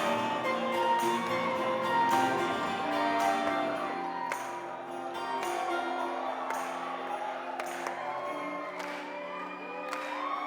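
Live band playing an acoustic arrangement, recorded from the audience. Crowd voices and cheers rise over the music near the end.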